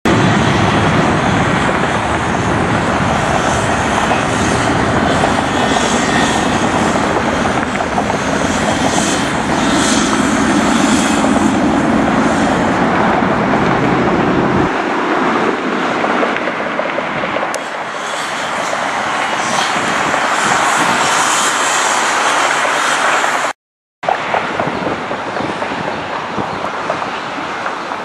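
Jet airliner engines running loud, a steady rushing noise with no distinct pitch. It changes abruptly about halfway through and breaks off briefly near the end, where shots are spliced together.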